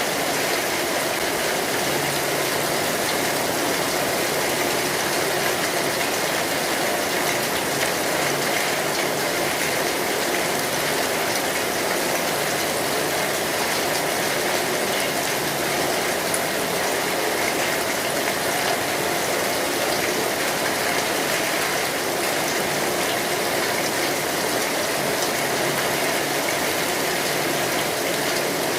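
Steady rain drumming on a metal roof, a dense, even patter of drops with no let-up.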